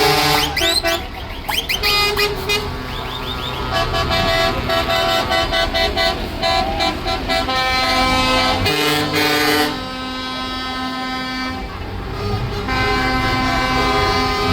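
Truck air horns blaring, several horn tones sounding together and switching pitch every second or so, over the low rumble of idling engines.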